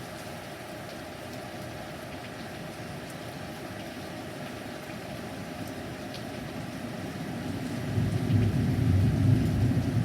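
Steady heavy rain with faint drop ticks, then a low rumble of thunder building up loudly about eight seconds in.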